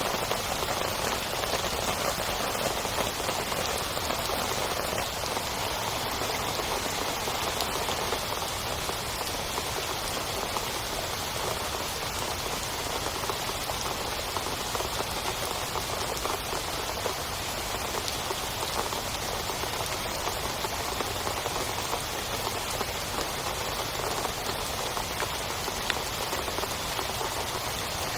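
Heavy rain pattering steadily on a tent, a dense, unbroken patter of drops.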